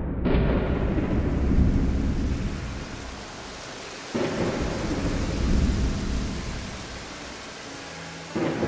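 Thunderstorm: rain falling steadily, with two long rolls of thunder that each start suddenly, swell and fade, the first just after the start and the second about four seconds in, and a third beginning near the end.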